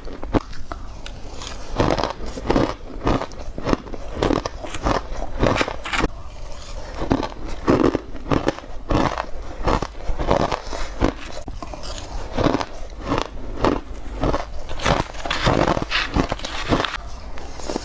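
Close-up crunching of ice being bitten: crushed, shaved and hard ice cracking between the teeth in quick, irregular crunches, several a second.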